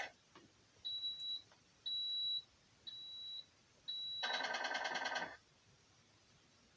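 Four short high electronic beeps about a second apart from a Tamiya multifunction sound unit in an RC semi truck, followed by about a second of a buzzy, pulsing truck sound from its small speaker.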